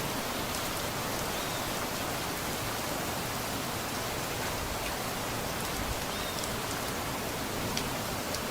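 Steady rain falling, an even hiss, with a few sharper drops standing out near the end.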